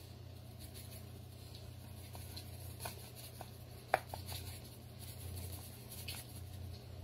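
Light taps and clicks of kitchen containers and utensils being handled while seasoning chicken, with one sharper click about four seconds in, over a steady low hum.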